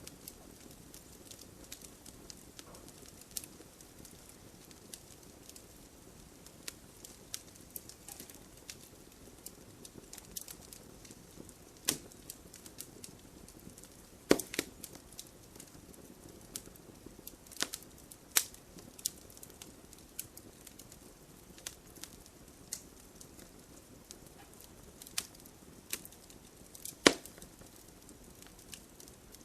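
Wood fire burning in a fireplace: a low steady hiss with irregular sharp crackles and occasional louder pops from the logs.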